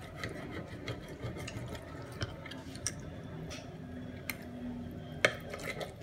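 Knife cutting raw salmon fillet on a ceramic plate: scattered light clicks and wet taps, with one sharper click about five seconds in.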